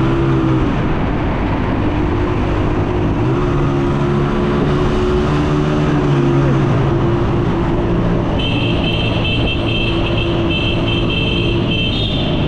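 Honda 125 motorcycle's single-cylinder engine running on the move, its pitch dipping and rising a few times with the throttle, under a steady rush of wind and road noise. About two-thirds of the way through, a high-pitched pulsing tone joins in for a few seconds.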